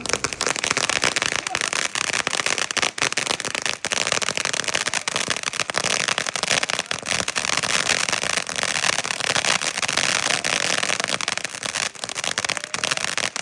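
A single firework going off in one long, unbroken run of rapid crackling pops and bangs that lasts about thirteen seconds and then stops.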